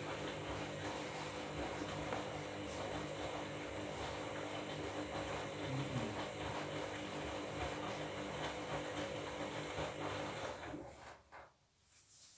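Washing machine running through its cycle: a steady motor hum with a dense noise over it, which winds down and stops about eleven seconds in.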